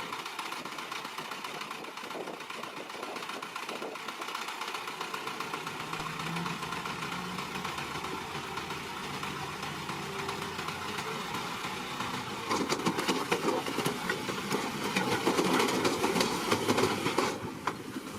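Small bulldozer's diesel engine running steadily at work. About twelve seconds in the sound grows louder, with dense clattering, then drops back shortly before the end.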